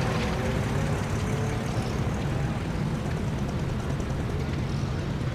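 A motor vehicle's engine running steadily with a low drone.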